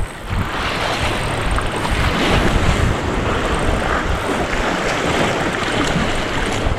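Sea surf washing and swelling, with wind buffeting the microphone in low rumbles.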